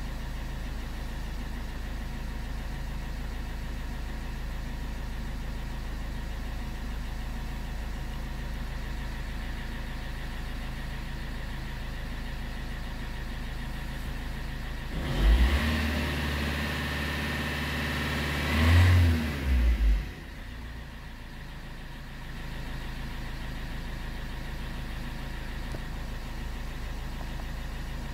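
Car engine idling steadily, brought up briefly about halfway through with two peaks like revs, then dropping back to idle.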